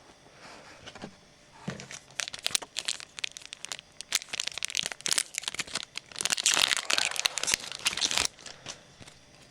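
Trading card pack wrapper being torn open and crinkled by hand, in a run of crackling rustles that grows loudest a little past the middle, then stops.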